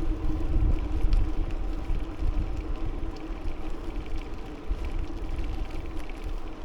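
Wind rumbling on the microphone of a moving bicycle, with tyre and road noise and a steady hum underneath, a little louder in the first second or two.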